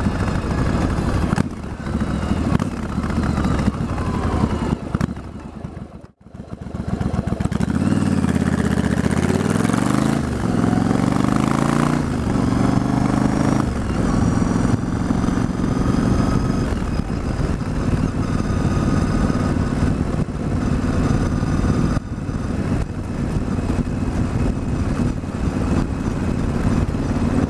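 Yamaha XV1100 Virago's V-twin engine running under way. The sound drops almost to nothing for a moment about six seconds in. The engine then pulls up through the gears, its pitch rising and falling back at two shifts, and settles to a steady cruise. It runs smoothly without the cough and splutter of its long-standing misfire, now that the regulator rectifier has been replaced.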